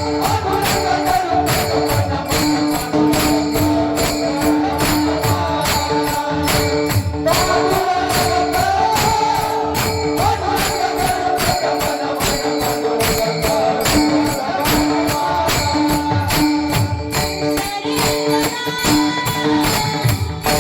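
Kirtan accompaniment music: small hand cymbals keeping a fast, even beat over two steady held tones and a wandering melody line.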